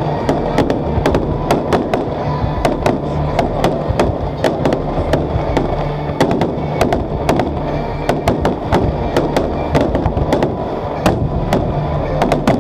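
Fireworks display: shells and salutes bursting in quick, irregular succession, several bangs a second, with music playing underneath.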